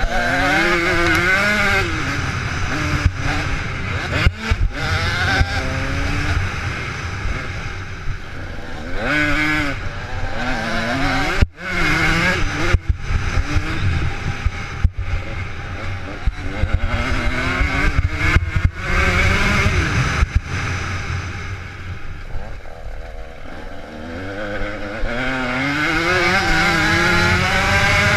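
Motocross motorcycle engines revving, the pitch repeatedly climbing and falling away as the throttle is opened and shut.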